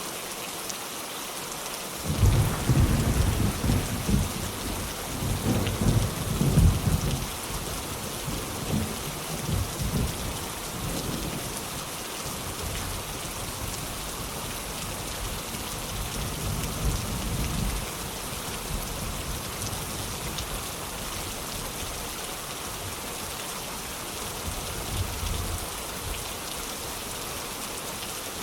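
Heavy, steady rain with a thunderclap about two seconds in that rolls and rumbles in several swells for over ten seconds before fading, and a faint further rumble near the end.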